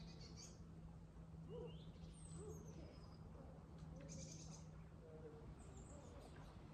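Faint outdoor ambience: scattered bird calls, a few short low notes and some high chirps, over a steady low hum.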